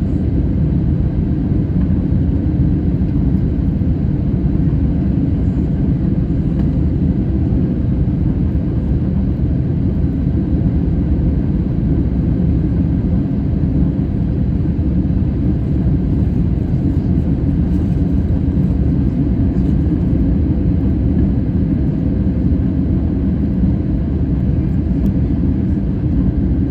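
Jet airliner's engine and airflow noise: a steady, unchanging low rumble with faint steady tones above it.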